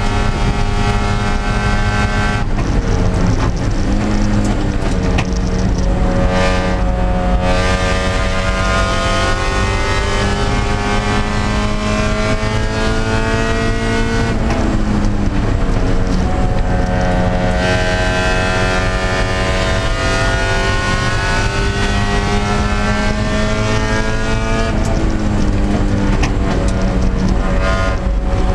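Spec Miata (Mazda MX-5) race car's four-cylinder engine at racing speed, heard from inside the cockpit. Its pitch climbs steadily and drops away sharply about five times as the revs rise and fall through the corners and gears.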